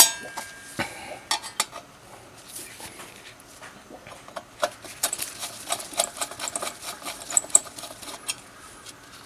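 Irregular light clicks and taps of small metal parts and tools being handled, growing busier about halfway through.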